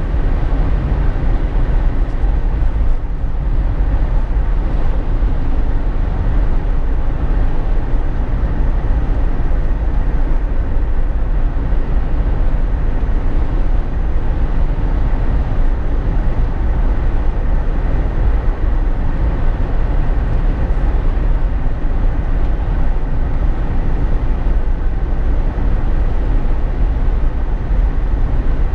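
Steady driving noise inside a Jeep Wrangler JK's cabin: tyre, wind and engine noise blended into an even rumble, heaviest in the low end, with no distinct events.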